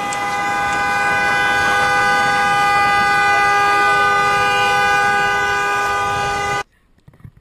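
Car horn held down in one long steady blast, two tones sounding together, cut off abruptly about six and a half seconds in.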